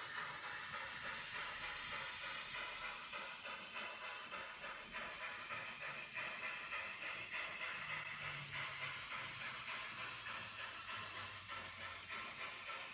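N scale model steam locomotive running, its sound a steady rhythmic chuffing of several beats a second.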